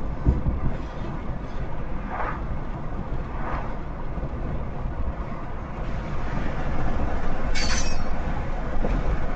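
Steady low rumble of a car driving alongside a rolling CSX freight train of tank cars and boxcars, growing louder over the last few seconds, with a brief sharp high-pitched sound about eight seconds in.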